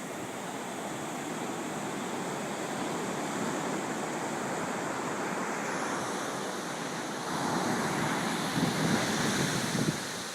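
Ocean surf washing on a beach, with a louder wave surging in about three-quarters of the way through, and wind buffeting the microphone.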